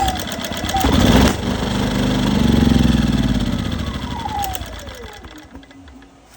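Westinghouse 2500 inverter generator's small engine, pull-started on a squirt of starter fluid. It catches about a second in, speeds up, then slows with falling pitch and dies out a few seconds later. It runs only as long as the starter fluid lasts, a sign that no gasoline is getting through. The owner suspects a clogged fuel filter or a bad carburetor.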